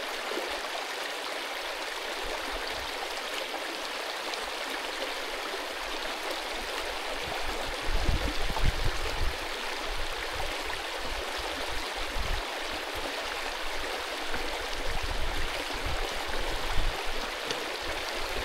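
Mountain stream rushing over rocks in a steady, even wash of water noise. Low rumbling buffets on the microphone come in about eight seconds in and again near the end.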